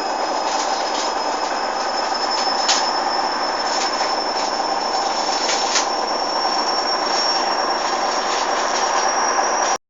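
Hoover washing machine running mid-cycle: a steady mechanical and water noise with a thin high whine and a few light clicks, stopping abruptly near the end.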